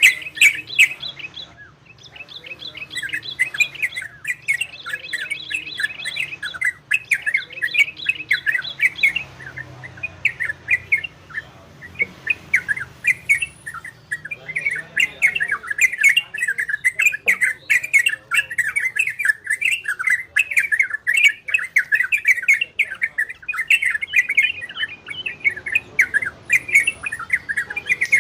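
Olive-winged bulbul (trocokan) singing a long, rapid chattering song of quick, wavering notes, one of the trocokan 'ropel' or 'garudo' song styles.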